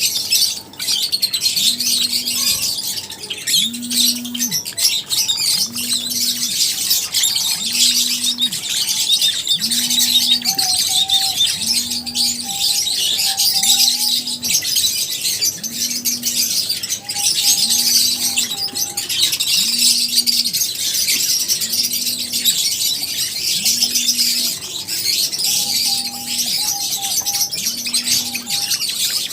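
Many lovebirds chirping and chattering continuously in a colony, a dense high-pitched twittering. Under it, a low tone pulses regularly about every second and a half.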